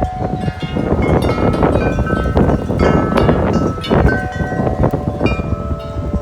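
Tubular wind chimes clanging wildly in strong wind gusts, many tubes struck over and over and ringing into one another. A heavy low rush of wind buffets the microphone underneath.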